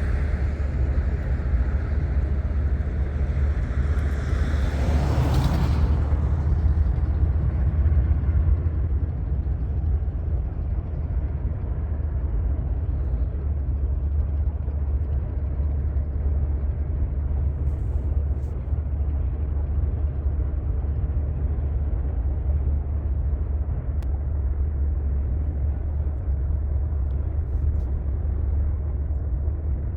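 Steady low vehicle rumble, with a brief louder rush about four to six seconds in.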